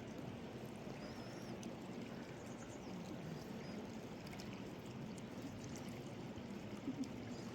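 Steady rushing water with a brief knock about seven seconds in.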